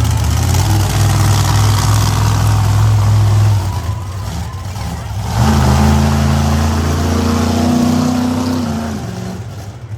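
Monster truck's V8 engine running hard at high revs, easing off about three and a half seconds in, then revving up sharply again about five and a half seconds in and backing off near the end.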